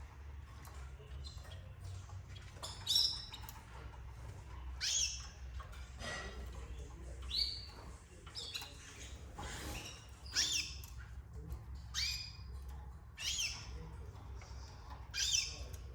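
Canaries giving short, sharp chirps one at a time, about every second or two, some sweeping in pitch, over a steady low hum.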